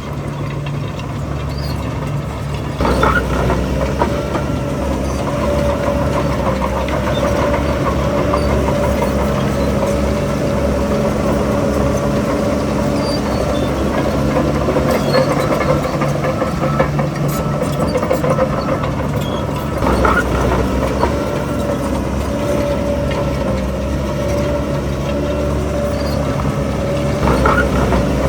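Heavy diesel earthmoving machinery working, its engine running under load with a steady whine over the drone. The engine surges louder about three seconds in, again near two-thirds through, and once more near the end.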